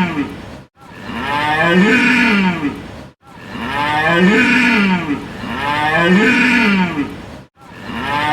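Cow mooing, the same long call repeated about four times, each rising and then falling in pitch and separated by brief gaps: one recorded moo played over and over.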